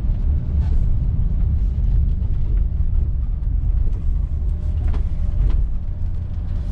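Steady low rumble of a 1968 Cadillac Calais on the move, heard inside the cabin: its 472 cubic-inch V8 running along with road and tyre noise.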